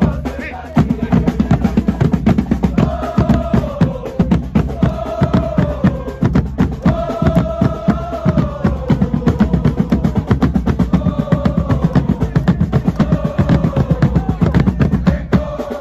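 Thai football supporters singing a chant together, each line held and falling away, over fast, steady drumming.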